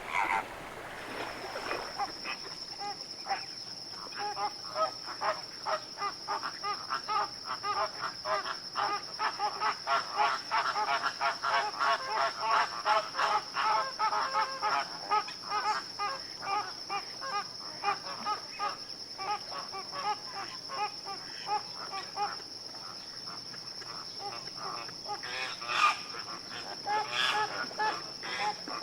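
A flock of birds calling over and over in quick, repeated calls, the chorus building through the middle and thinning toward the end. A steady high tone runs underneath from about a second in.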